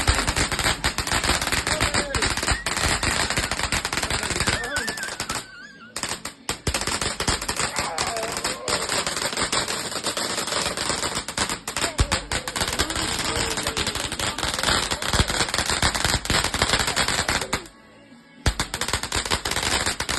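Fireworks going off in a fast, dense run of crackling bangs, like machine-gun fire, with a short pause about five seconds in and another near the end.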